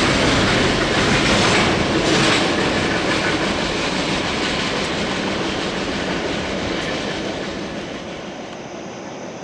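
Freight train cars rolling past on the rails, the sound of the wheels fading steadily as the train moves away.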